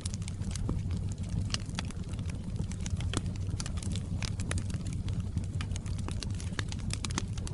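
Fire crackling in a fireplace: a steady low rumble with frequent, irregular sharp pops and snaps.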